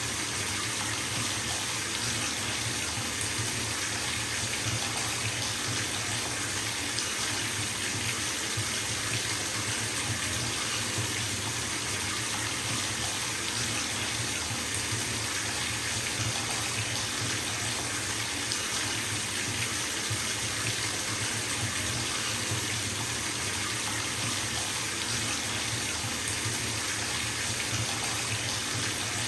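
Bathtub filling: water running steadily from the tap and splashing into the tub, an even, unbroken rushing.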